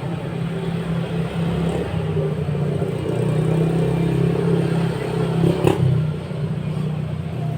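Engine running with a steady low hum, with a brief louder burst of sound a little over five seconds in.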